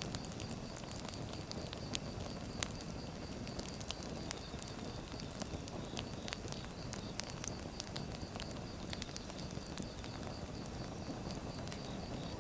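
Firewood burning in a fire, crackling: scattered sharp pops and snaps over a steady low rush.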